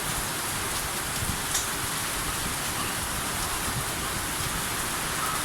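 Steady rain falling on surfaces, an even hiss with a few louder drips now and then.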